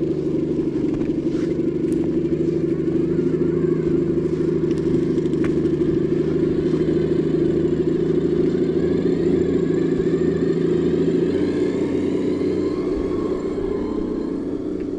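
A steady mechanical hum made of several low tones, one of which drops out about three-quarters of the way through.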